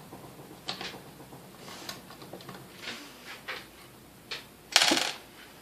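Scattered light clicks and taps, with one louder clatter about five seconds in.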